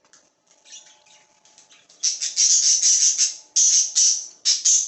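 Budgerigars squawking and chirping in quick, harsh, high calls, faint at first and getting loud and dense about two seconds in.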